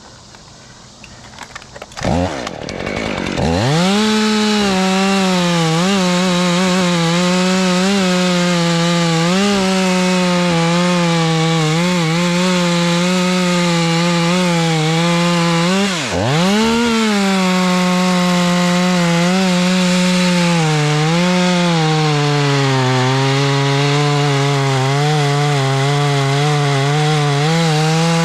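Two-stroke chainsaw started about two seconds in, revving up to full throttle and then running at high revs, its pitch wavering as it cuts wood. About halfway through the throttle drops for a moment and comes straight back up.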